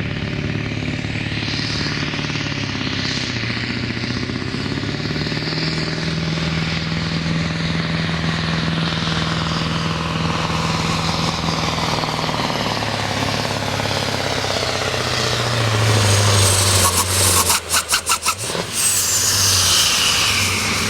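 Diesel pulling truck's engine running, its pitch shifting and growing louder about three-quarters of the way through. This is followed by a few sharp breaks in the sound and a high whistle that falls away near the end.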